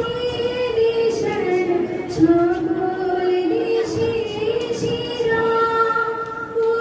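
A female voice singing a slow melody, holding long notes and moving between them.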